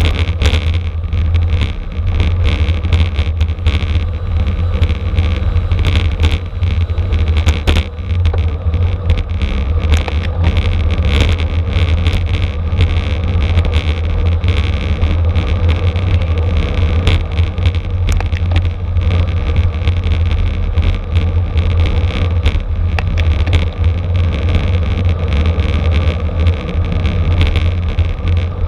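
Steady wind rumble on the microphone of a camera moving at racing speed on a bicycle, with frequent small clicks and rattles.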